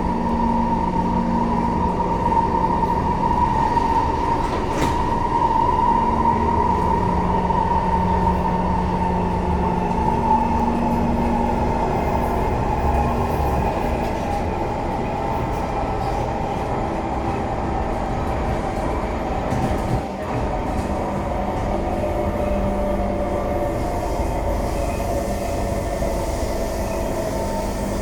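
SMRT C151 metro train running between stations: a steady rumble of wheels on track under an electric traction-motor whine that slowly falls in pitch.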